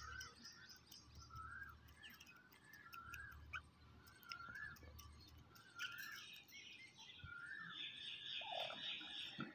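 A bird giving short, faint calls, each rising and then falling, about once a second, with higher chirping joining in from about six seconds in.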